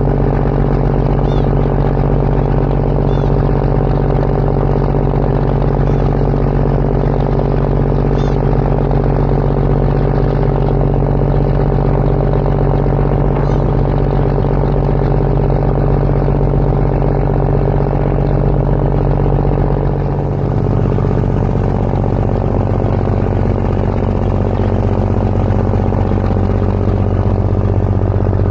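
Passenger ferry's diesel engine running with a steady deep drone; about twenty seconds in its note drops lower.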